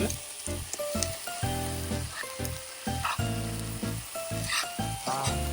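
Fish cake and onion sizzling and frying in a pan over a wood fire, the food catching and starting to burn, with background music.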